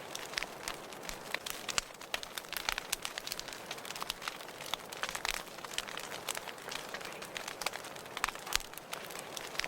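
Wood fire burning in a fireplace, with a steady soft hiss and many irregular sharp crackles and pops.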